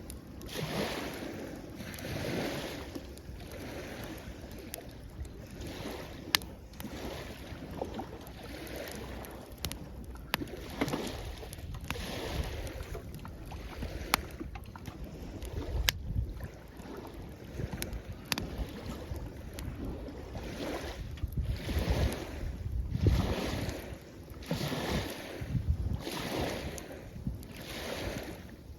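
Small waves washing onto the shore, the noise swelling and easing every few seconds, with sharp pops and crackles from a wood campfire scattered through it.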